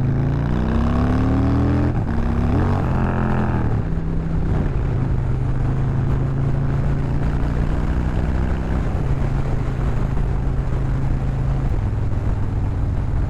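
Harley-Davidson V-twin engine revving hard in second gear. About two seconds in, the gear change goes wrong at high revs and the revs flare up and down before the bike settles into a steady run in the next gear.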